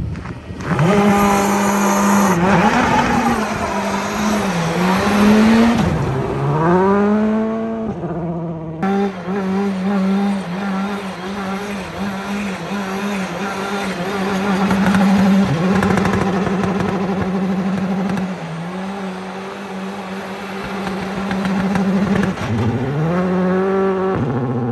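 High-performance car engine being driven hard on ice. The revs swing sharply up and down for the first several seconds, then hold high and fairly steady, and climb again near the end, with some tyre squeal.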